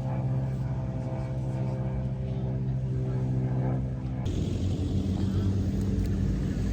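An engine running at a steady speed, a constant drone. About four seconds in it cuts abruptly to a rougher, noisier engine sound.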